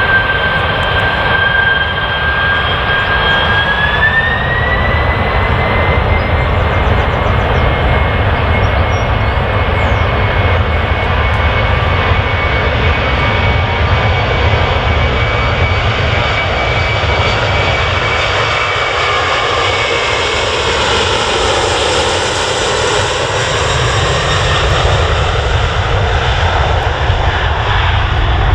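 Jet airliner engines running loud and steady: a broad rush with a high whine that rises in pitch about four seconds in as the engines spool up, then holds. A swirling, sweeping change in the sound comes in near the end as the aircraft passes.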